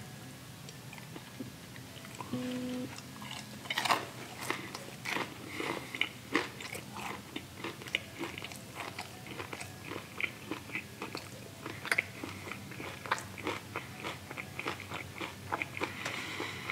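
Close crunching and chewing of a bite of Popeyes fried chicken dipped in ranch, a quick run of crisp crunches starting about three and a half seconds in and going on as he chews.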